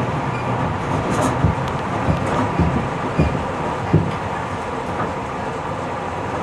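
Tobu 50090-series electric train running at speed, heard from inside the passenger car: a steady rolling rumble with a handful of wheel knocks over rail joints in the first four seconds, then smoother running.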